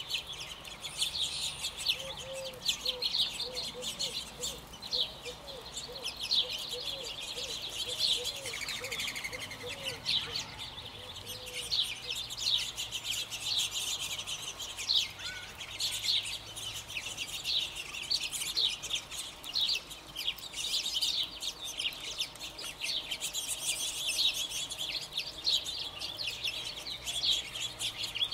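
Birds chirping continuously, many short high chirps overlapping. In the first half a run of soft, low, evenly repeated notes sounds under them.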